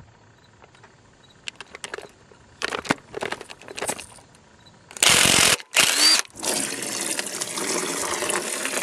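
A few tool clicks as the drain plug is worked out of a Chevy 350 small-block's engine block. About five seconds in, the liquid spurts out twice, loudly, then settles into a steady stream pouring into a drain pan.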